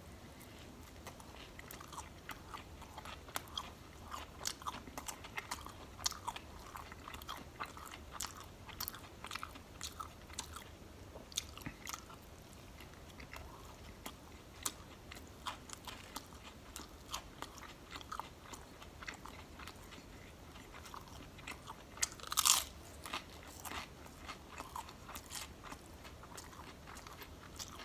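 A man chewing a mouthful of submarine sandwich, with soft, irregular wet mouth clicks. One louder, brief noise comes about twenty-two seconds in.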